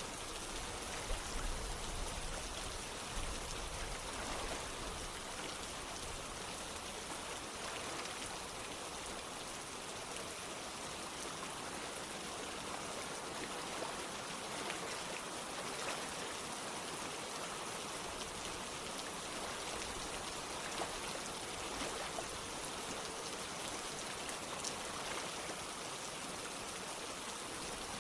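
Steady rain with running water: a constant hiss with scattered small drop ticks.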